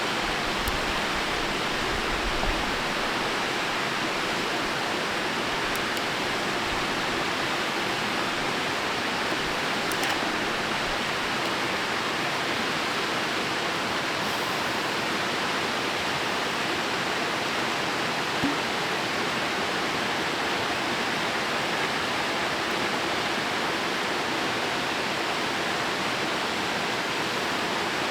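Waterfall rushing, a steady even hiss of falling water, with a couple of faint clicks.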